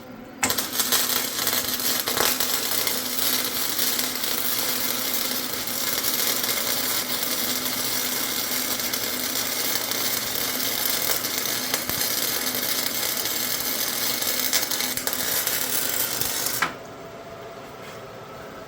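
Flux-core wire-feed welding with a Firepower FP120 120-volt welder: a steady crackling arc that starts about half a second in and cuts off suddenly near the end, with a low hum beneath it.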